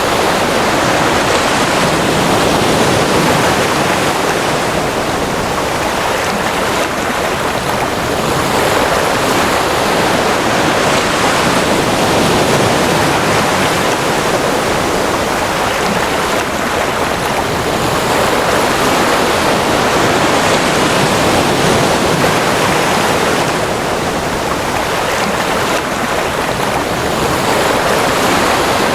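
Ocean waves washing in: a continuous rush of surf with slight, slow swells and ebbs in loudness.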